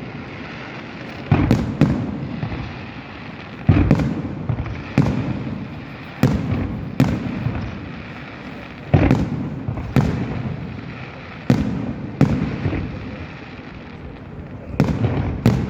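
Aerial fireworks going off: about a dozen loud bangs, irregularly spaced one to two seconds apart, each trailing off in a low rolling echo.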